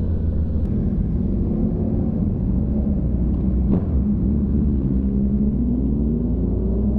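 Motorcycle engine running steadily at cruising speed during a ride, a constant rumble with an even pitch.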